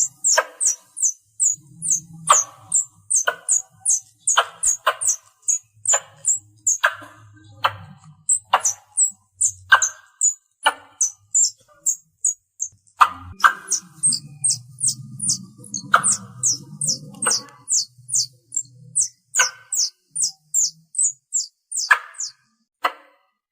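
Squirrel calling: a rapid run of short, high-pitched chirps falling in pitch, about three a second, mixed with sharper chip notes roughly once a second. This is the call used to draw other squirrels in.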